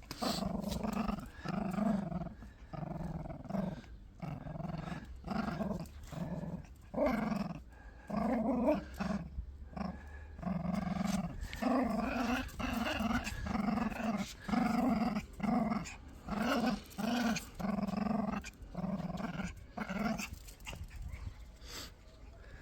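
Small Biewer terrier growling in play, a string of short growls about one a second while tugging at a toy, stopping near the end.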